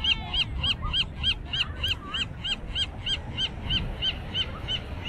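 A bird calling in a fast, even series of short high notes, about four a second, stopping near the end, with fainter, lower calls behind it.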